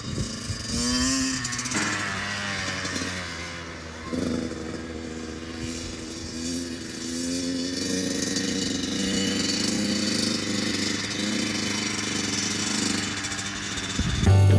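Kawasaki KX100 two-stroke dirt bike engine revving up and down, its pitch rising and falling again and again as it is ridden off.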